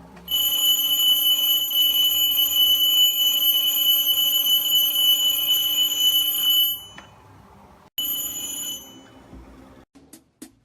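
Alarm clock ringing: a loud, steady high-pitched ring for about six and a half seconds that stops, then a short second ring about eight seconds in. A few faint clicks follow near the end.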